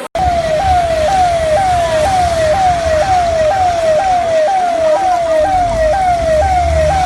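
Emergency vehicle siren sounding a repeated quick falling wail, about two cycles a second, over a low engine rumble. It starts abruptly a split second in.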